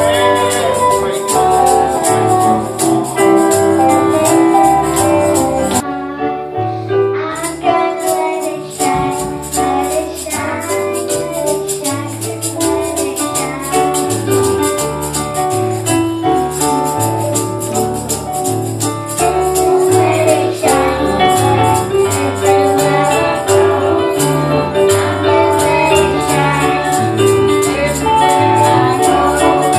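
Live gospel worship music: a steady beat with a tambourine shaking throughout, bass notes and keyboard, and voices singing. The beat and tambourine drop out briefly about six seconds in, then come back.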